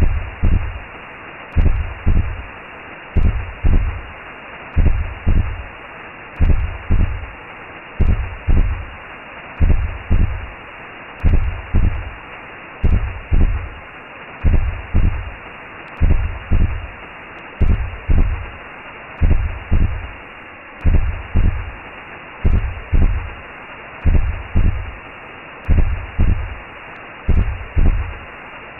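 Recreated womb sound: a slow, paired heartbeat thump repeating about every one and a half seconds over a steady whooshing hiss, made to imitate what a baby hears inside the mother's belly.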